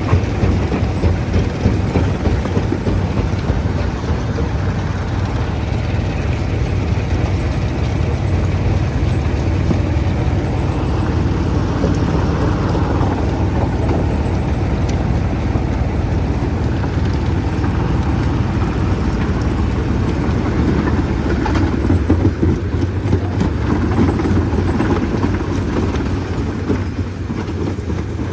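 Stone crusher machinery running steadily: a loud, continuous low rumble with constant fine clatter through it.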